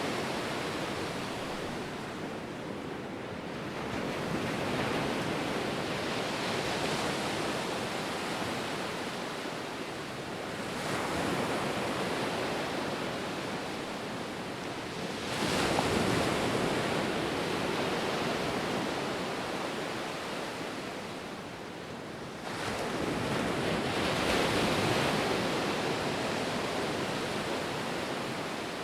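Ocean surf: waves breaking and washing up the shore, swelling in a new surge every five to seven seconds. The loudest and sharpest break comes about halfway through.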